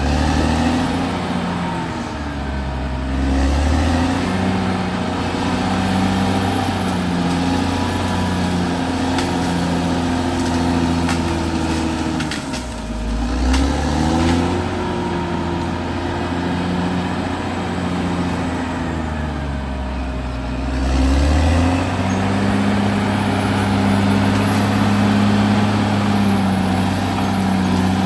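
Caterpillar D6R XL bulldozer's diesel engine running continuously, its pitch dipping and recovering three times, then holding steady for the last third.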